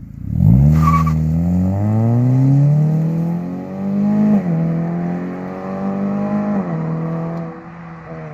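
The 2016 Acura TLX's 2.4-litre four-cylinder, breathing through an aftermarket Megan Racing M-FG muffler with the rear resonator deleted, starts about half a second in. It flares up to a fast idle, then drops back in two steps, near the middle and near the end.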